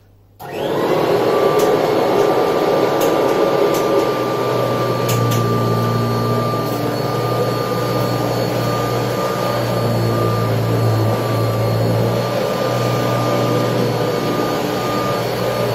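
1979 Kirby Tradition upright vacuum cleaner switching on about half a second in and spinning up, then running steadily with a high whine over its airflow noise. A few faint ticks come in the first few seconds.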